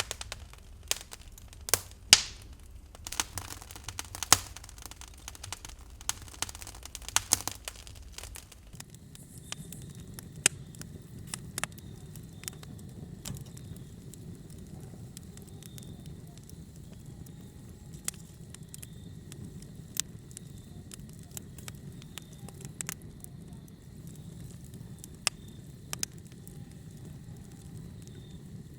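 Wood fire crackling, with dense sharp pops and snaps for the first eight seconds or so. The loudest pop comes about two seconds in. After that it settles into a low steady rumble with only occasional pops.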